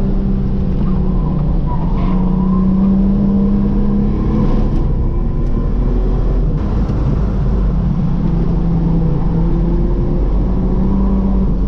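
Ford AU Falcon's engine pulling hard on a race track, heard from inside the cabin, its note holding steady and then shifting in pitch as the driver works the throttle, over road and wind noise.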